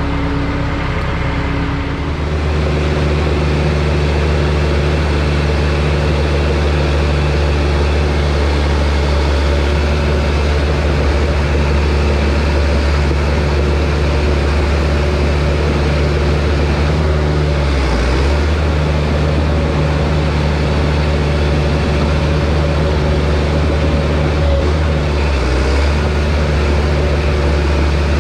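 Bulldozer's diesel engine running steadily under throttle, its speed stepping up about two seconds in, with two brief dips in engine note later on.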